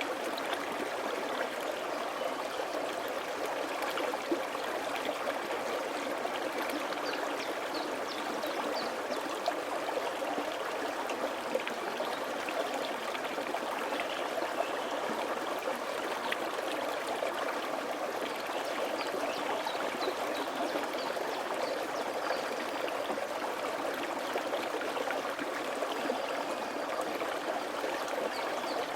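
Mountain valley stream flowing and splashing over rocks, a steady, even babble of water with small gurgles throughout.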